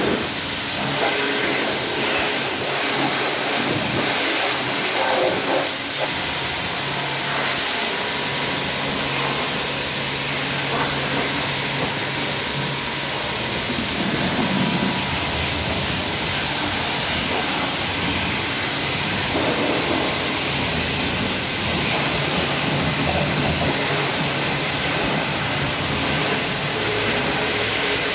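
Car-wash equipment running: a motor with a steady, loud rushing hiss, as of high-pressure water or air being blown over the car.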